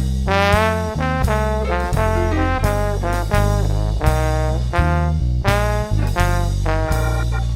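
Ska band's horn section, trombone and trumpet, playing a melody line in short phrases over bass and drums.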